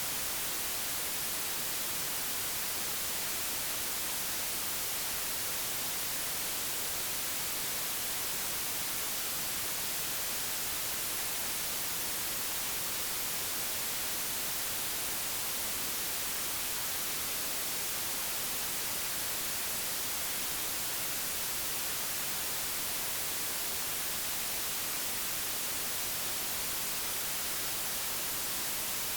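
Digitally generated white noise: an even, unchanging hiss across the whole range, with no other sound.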